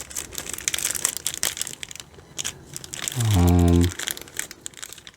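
Plastic packaging crinkling and rustling as vacuum filters are unwrapped from the box. About three seconds in, a short, loud, steady low tone cuts in for under a second.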